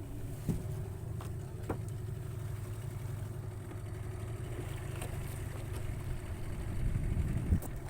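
Boat engine running steadily with a low hum, with a few light knocks and clicks.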